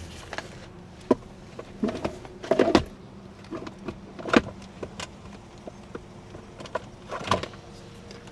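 A series of short knocks and clicks, a few of them in quick clusters, over a faint steady hum.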